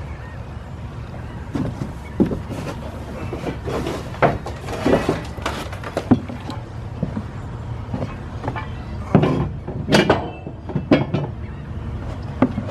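Irregular knocks, clanks and scrapes of metal tools being handled, loudest in two clusters about four seconds in and near nine to eleven seconds, over a steady low rumble.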